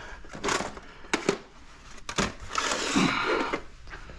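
Scrap parts being handled: a few sharp knocks and clatters, then a longer rattle about two and a half seconds in.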